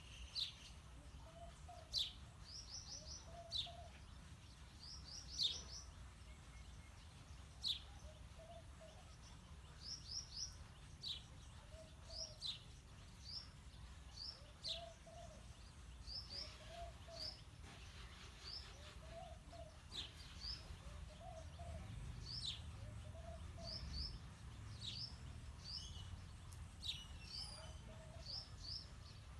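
House sparrows chirping: short, sharp chirps, often in quick runs of two to four, repeated throughout, with a softer, lower call repeating every second or two beneath them.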